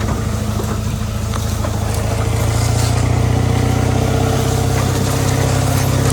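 Ford F350 pickup's engine running under load as it tows, steady and low, getting a little louder from about two seconds in.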